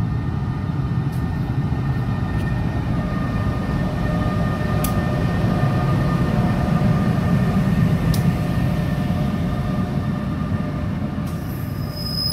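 NJ Transit ALP-46 electric locomotive and its passenger cars rolling past: a steady low rumble of wheels on rail with a faint whine over it and a few light clicks.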